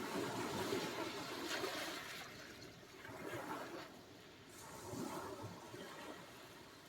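Sea surf washing onto the shore in rising and falling swells of rushing water: the loudest about a second in, and smaller ones about three and five seconds in.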